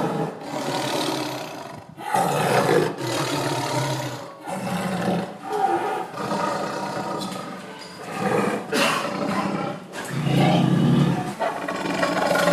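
A large wild animal roaring again and again, in a string of deep calls each lasting a second or two.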